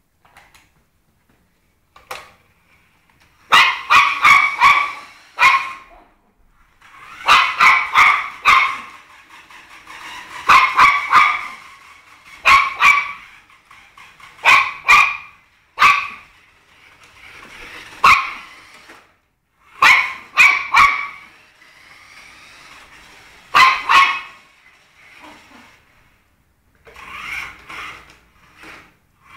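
Chihuahua barking in quick bursts of several sharp, high yaps, over and over, with quieter pauses between bursts. Near the end a rising whir joins in.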